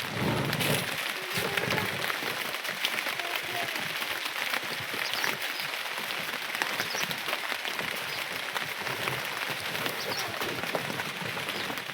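Steady rain falling, a dense hiss made up of many small drop impacts.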